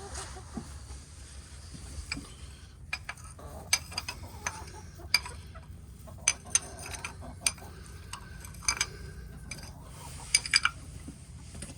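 Chickens pecking at food, their beaks tapping sharply and irregularly against a dish, with a cluster of quick taps about ten seconds in.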